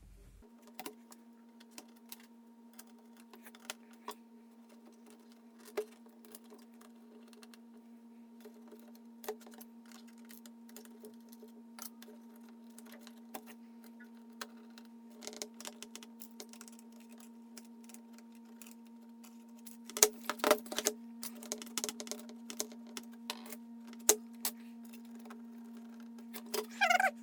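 Small metal parts clicking and clinking as washers and bolts are handled and fitted into an induction cooker's coil mount, with a busy run of clinks about two-thirds of the way through. A steady hum runs underneath.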